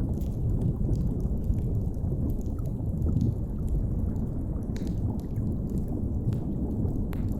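Deep underwater ambience, a steady low rumble, with a wood fire crackling over it in scattered small pops and snaps. A couple of sharper snaps come in the second half.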